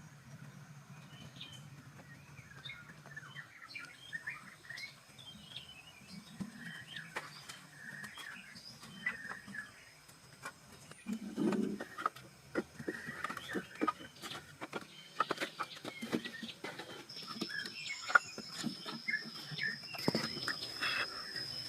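Birds chirping in short, repeated calls, with scattered sharp knocks and taps that grow more frequent in the second half. A steady high whine joins in the last few seconds.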